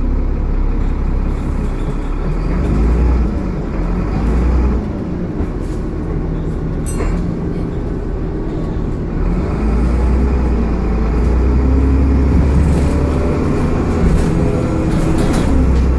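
Dennis Trident double-decker bus engine running, with a turbo whine; a thin whine rises in pitch through the second half. A sharp click about seven seconds in.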